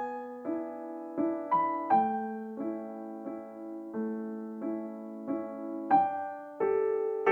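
Background piano music: gentle chords struck every half second or so, each note ringing and fading.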